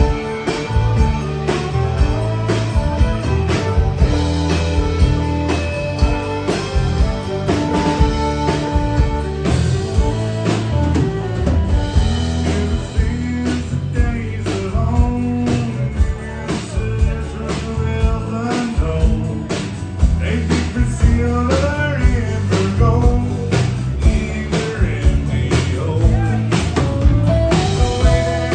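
A band playing a country-rock song, with guitar, bass and a steady drum beat, and a voice singing in places.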